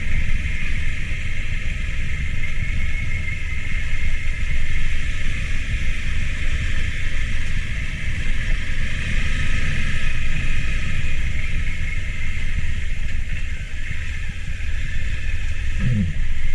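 Car engine held in first gear to engine-brake down a steep descent, with a steady low rumble of engine and road noise throughout.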